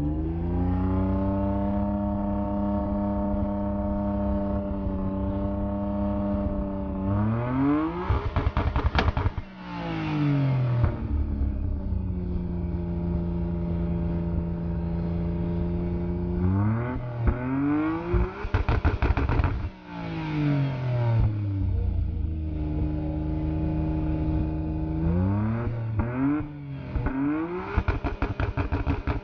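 Nissan Skyline GT-R R32's twin-turbo inline-six (RB26DETT) exhaust, held at a steady raised rev, then revved hard twice with a rising and falling note and crackles at the peaks, and blipped a few quick times near the end.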